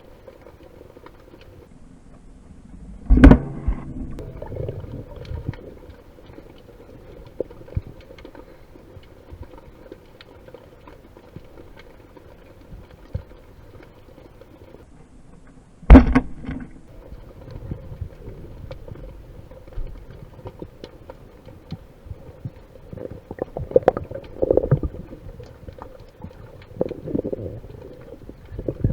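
Underwater sound in a stormy surge: a steady muffled rush with faint crackling, broken by two sharp loud knocks, about three seconds in and again about thirteen seconds later.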